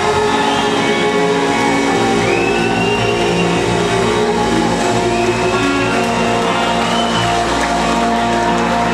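Live rock band playing loud amplified music, with electric guitar to the fore.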